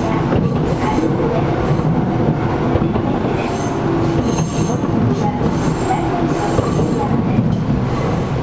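Interior running noise of a Gakunan Railway 7000 series electric railcar in motion, with its air conditioning running and high wheel squeals that come and go several times.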